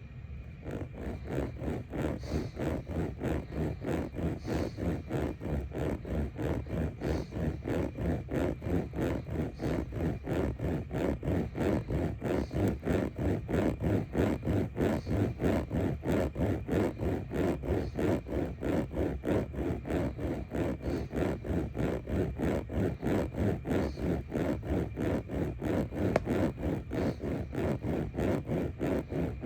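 Steady rhythmic scraping or rubbing, about three even strokes a second throughout, with a faint steady high tone underneath.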